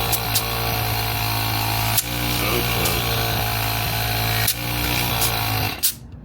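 Air compressor running with a steady hum and hiss, a few light clicks over it, cutting off abruptly just before the end.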